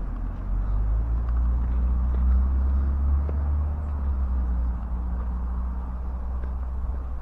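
Low engine rumble of a passing motor vehicle. It swells to its loudest about two seconds in and then slowly fades.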